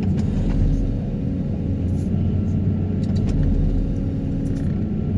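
Excavator running a vibratory pile hammer (Daedong 350T) for sheet-pile extraction, with a steady low drone from the engine and hydraulics and a few faint ticks.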